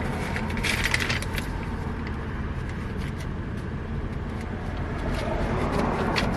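Steady low hum of a car running while parked, with a burst of rustling and light clicks about a second in and a couple of sharp clicks near the end as small items are handled.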